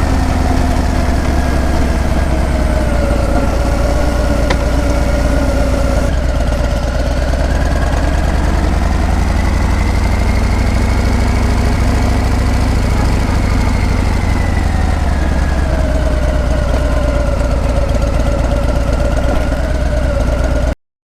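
Harley-Davidson Breakout's V-twin engine and exhaust running steadily with a deep, even rumble. Its pitch sinks a little a few seconds in, rises again in the middle and sinks once more, as engine speed eases and picks up. The sound cuts off abruptly near the end.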